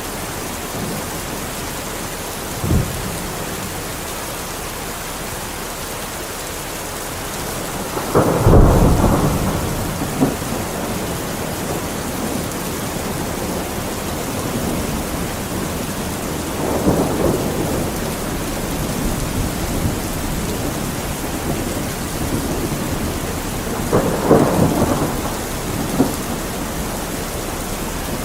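Steady heavy rain with thunder rumbling several times over it: a short low thud about three seconds in, the loudest roll about eight seconds in, and further rolls near the middle and near the end.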